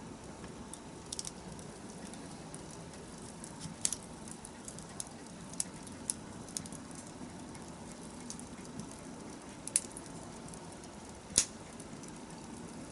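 Wood fire burning, a steady low rush with scattered crackles and sharp pops; the loudest pop comes near the end.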